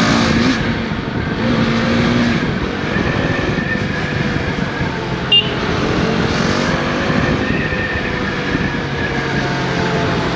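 KTM Duke 390's single-cylinder engine running on the move, its revs slowly rising and falling, over wind and road noise. A short sharp click comes about five seconds in.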